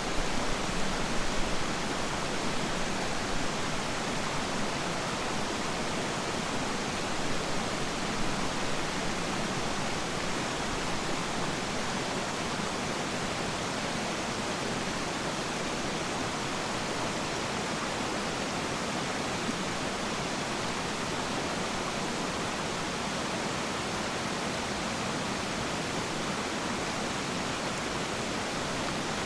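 Waterfall: a steady, dense rush of falling water, with a few brief louder splashes in the first seconds.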